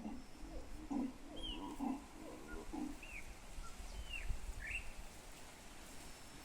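A wild animal's low calls, four in a row about a second apart, followed by quieter background. Small birds chirp briefly in between.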